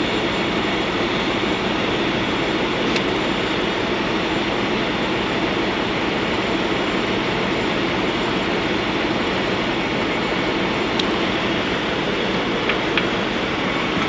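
Steady rumble and hiss of idling diesel trucks, with a few faint clicks.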